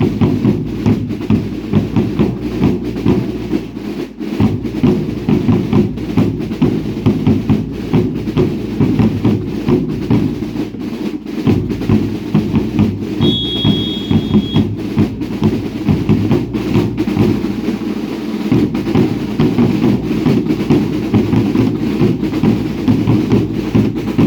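Drums of a baile indio dance troupe beating a steady, driving rhythm, with deep bass drums and sharper snare-type drums. A short high whistle sounds about thirteen seconds in.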